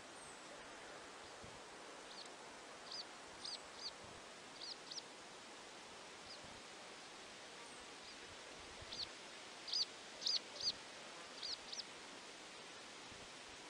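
A small bird chirping: short high notes in quick clusters of two or three, over a steady soft hiss. The loudest chirps come in the second half.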